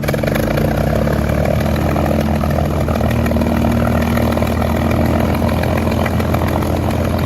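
An engine running steadily, a constant deep hum with no change in speed.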